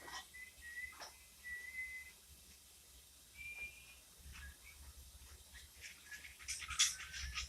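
Cockatiel whistling: plain, steady whistled notes, then a burst of short, sharp chirps near the end.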